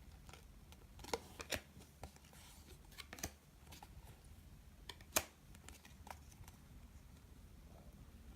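Glossy trading cards being handled and flipped through one by one: scattered sharp clicks and snaps, the loudest about five seconds in.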